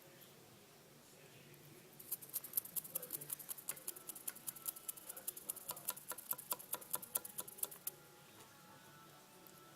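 A fast run of small sharp clicks, about seven a second, starting about two seconds in and stopping suddenly some six seconds later.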